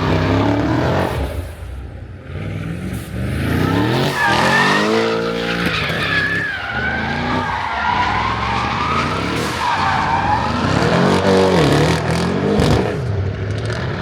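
A car spinning its tyres, with the engine revving up and down repeatedly and the tyres squealing on pavement.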